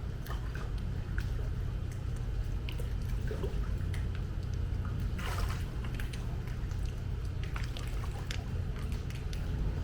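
Pool water sloshing and splashing around a person exercising in it, with small drips and one louder splash about five seconds in, over a steady low hum.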